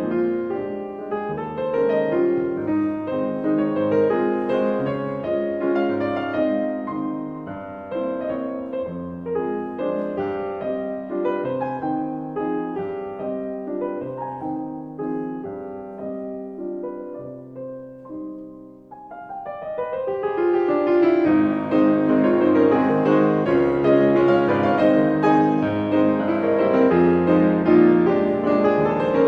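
Background piano music with stacked notes, growing quieter just before two-thirds through, then returning fuller and louder.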